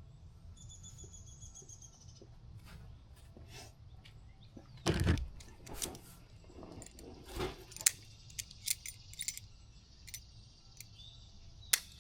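Small hard objects being handled and set down: a couple of knocks about five and seven seconds in, followed by scattered light clicks and clinks. A faint high chirp sounds near the start.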